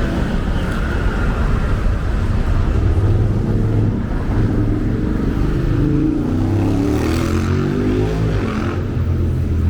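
Street traffic: motor vehicle engines running close by, one rising in pitch as it speeds up, with the rush of a car passing about seven seconds in.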